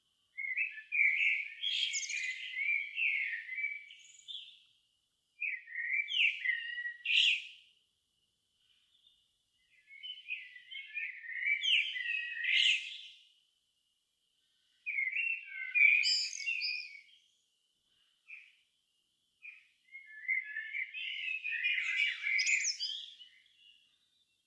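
A songbird singing in five warbled phrases, each two to four seconds long, with short pauses between them.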